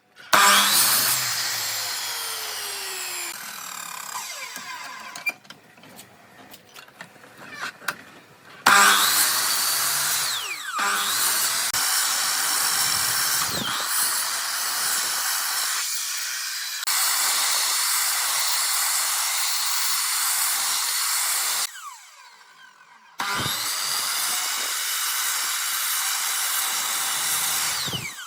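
Electric power tool running on wood, in several stretches that start and stop abruptly, with the motor's pitch sliding at times.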